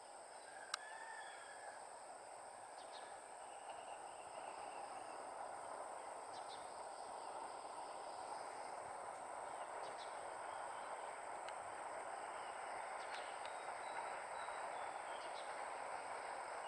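A distant train hauled by an EMD GT18LA-2 diesel locomotive approaches slowly, its faint steady rumble growing gradually louder. Birds chirp now and then over a steady high insect whine, and there is one sharp click about a second in.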